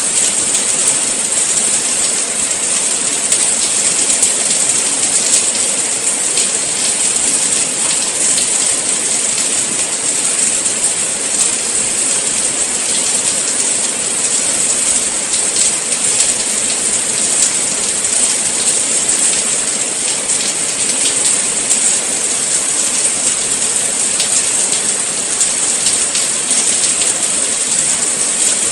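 Steady rain falling, an even hiss strongest in the high range with fine patter of drops throughout.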